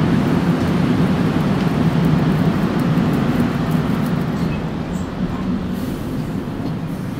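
Steady rumble of a Korail electric commuter train standing at the platform with its doors open, easing slightly about four seconds in.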